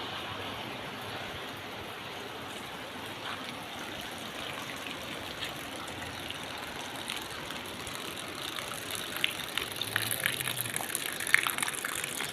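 Steady rush of running water in the rain, with sharp little ticks that come thicker and louder over the last few seconds.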